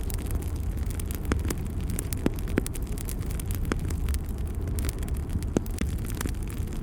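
Wood fire burning in a fireplace: a steady low rumble of flames with scattered sharp crackles and pops. The loudest pops come about two and a half seconds in and again late on.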